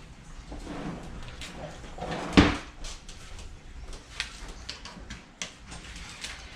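Clicks and knocks of objects being handled, with one loud knock about two and a half seconds in and lighter clicks after it.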